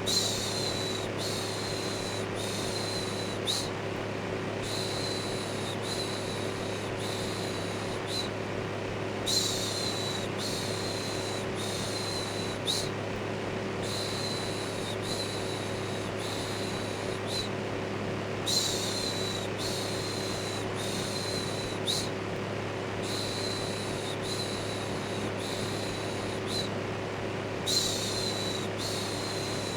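Electric fan running steadily with a low hum, under a repeated 'shhh' shushing sound: short shushes about a second apart, with a louder shush every nine seconds or so.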